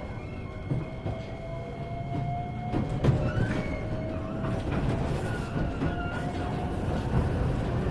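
Iyotetsu 3000 series electric train running, heard from inside a motor car: steady running noise with a faint whine that slowly rises in pitch, and a few sharp knocks of the wheels over rail joints, the loudest about three seconds in.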